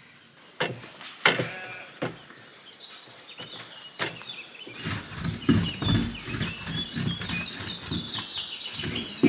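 Birds singing, with a dense run of quick high chirps through the second half over rustling, and a few sharp knocks in the first half.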